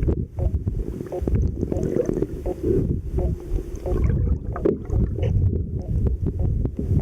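Muffled rushing and sloshing of water heard through a waterproof camera's microphone held underwater, with many irregular sharp clicks and knocks.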